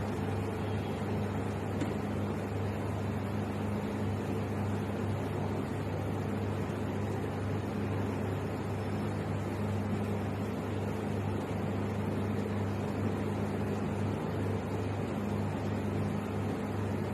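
A steady low hum with a constant hiss behind it, unchanging throughout, like a running electrical appliance or fan motor.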